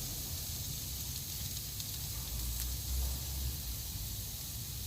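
Marinated chicken sizzling on a barbecue grill: a steady hiss, with a low rumble swelling about midway.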